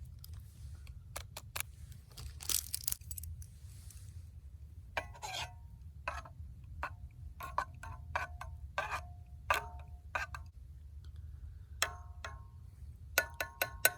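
Metal clinking and tapping, as of a spoon against a metal camp mug or pot: irregular sharp taps, many with a brief ringing tone, over a steady low rumble.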